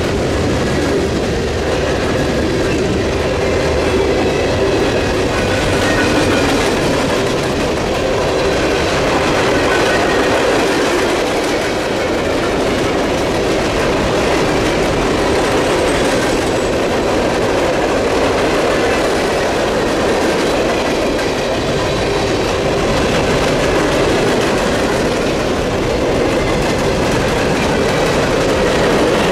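Freight cars of a long train rolling past at close range, lumber-loaded centerbeam flatcars and then open-top hopper cars: a steady rumble and clatter of steel wheels on the rails, with faint high wheel squeal at times.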